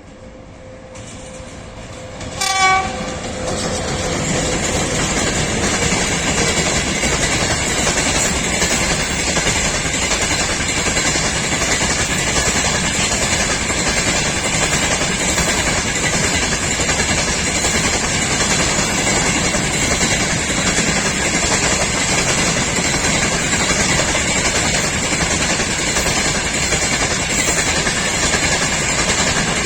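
VL80S electric freight locomotive approaching and passing, giving one short horn blast about two and a half seconds in. Then the freight wagons roll by, a steady loud running noise with a regular clickety-clack of wheels over rail joints.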